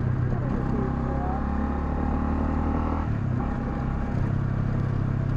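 Honda CL250's single-cylinder engine running steadily while riding, its note shifting about half a second in and again around three seconds in.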